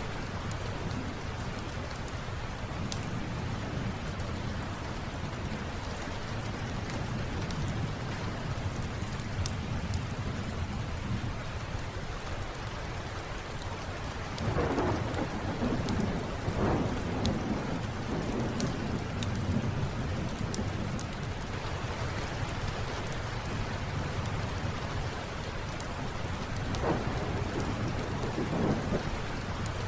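Steady rain with rolling thunder rumbling low underneath, swelling into louder peals about halfway through and again near the end. Scattered sharp crackles of a wood fire in a fireplace sound through the rain.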